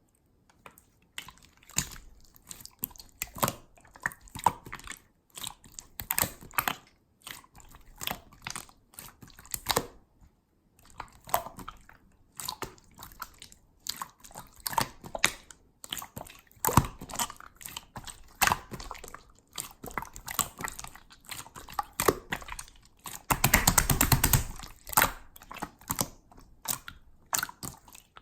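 Clear transparent slime being squeezed, pressed and stretched by hand, giving irregular wet pops and clicks, with a longer, denser run of crackling near the end.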